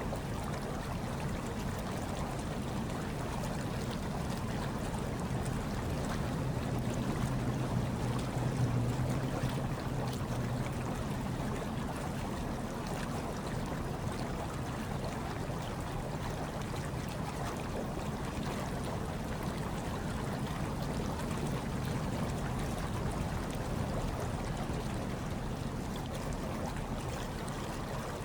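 Hot tub water bubbling and trickling steadily over a low hum, swelling a little about eight seconds in.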